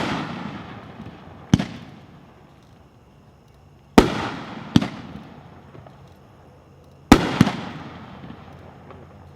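A 16-shot consumer fireworks cake firing its aerial shots. There are five sharp booms at uneven gaps of up to a few seconds, the last four in two close pairs, and each one dies away in a rolling echo.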